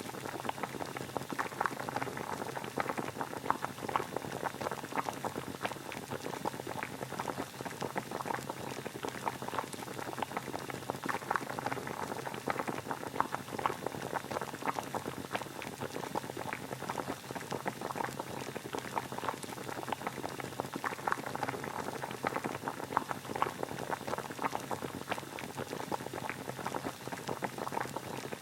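Water boiling steadily: a continuous dense bubbling with many small pops.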